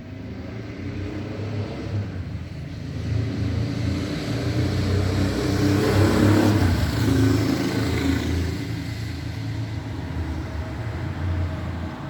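Street traffic: a motor vehicle with a low engine rumble passes close by, growing louder to a peak about halfway through and then fading away.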